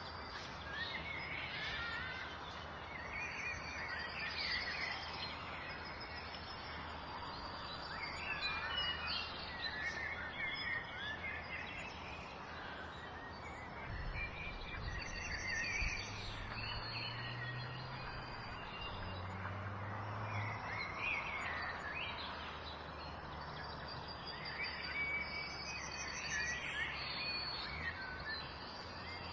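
Small birds chirping and singing over a steady background hiss, with a faint low hum for several seconds in the middle.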